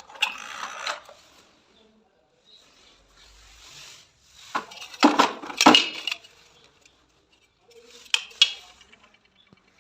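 Small hard objects clattering and clicking together in three short bouts, loudest about five to six seconds in.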